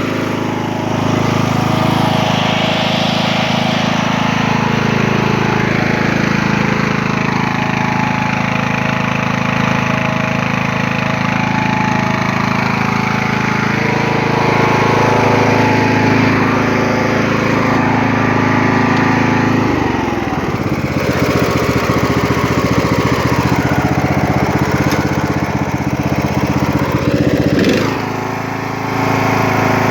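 Briggs & Stratton 16.5 hp, 500cc engine of a Poulan XT lawn tractor running steadily just after startup. About two-thirds of the way through its speed drops to a slower, lower beat, and it comes back up near the end.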